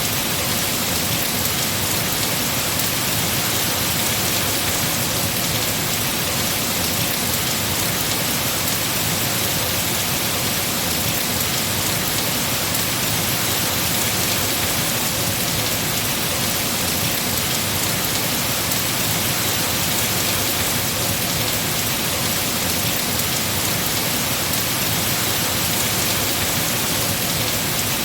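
Heavy rain falling steadily on trees, an even hiss of rain with no let-up.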